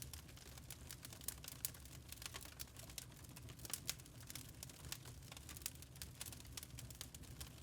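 Wood fire crackling in a fireplace: irregular sharp pops and snaps over a faint low rumble of the flames.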